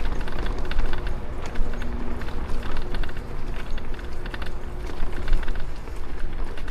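Wind rumbling over the microphone on a moving bicycle, with rapid, irregular clicks and rattles.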